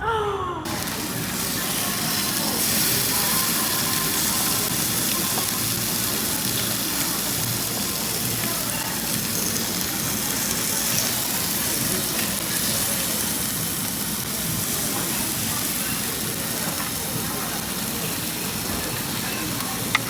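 Food frying in a pan: a steady sizzle that starts abruptly about half a second in.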